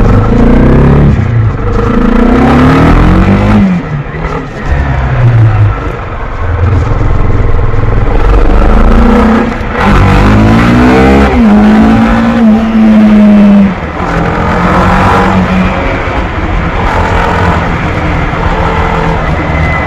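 Honda CB300R's single-cylinder engine under hard acceleration, its pitch climbing and dropping back again and again as it is run up through the gears. In the middle it holds a high, steady note for a couple of seconds, then falls away sharply as the throttle closes.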